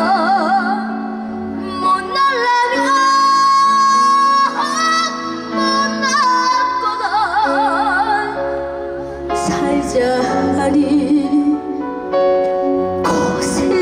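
A woman singing with a wide, wavering vibrato over a sustained instrumental backing, held notes alternating with short gaps between phrases.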